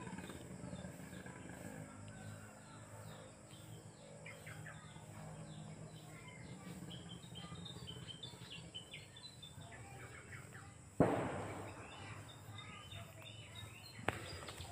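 Small birds chirping in short repeated calls in the background over a low steady hum. About eleven seconds in comes a sudden rustling clatter that fades within a second, and a light click near the end.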